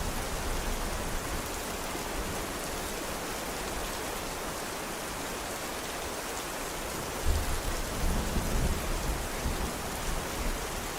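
Steady rain falling, an even hiss, with a sudden deep rumble rising out of it about seven seconds in and lasting a couple of seconds.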